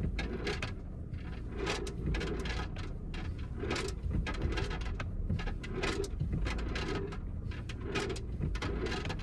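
Inside a 2022 Kia Sorento, a low rumble under repeated knocks and clicks, with a rolling clatter returning about once a second: loose objects rolling back and forth in the driver's-side floor. The cause turned out to be five loose batteries in a structural pocket under the driver's seat.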